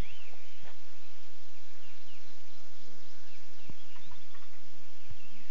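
Birds chirping in short bursts near the start and again near the end, over a steady hiss with a few sharp knocks.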